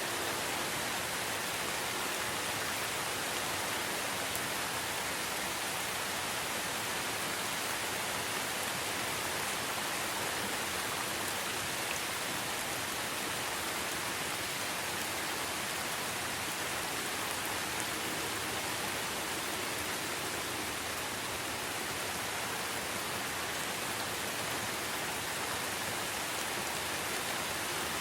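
Steady rainfall in a forest, an even hiss of drops with faint ticks of single drops.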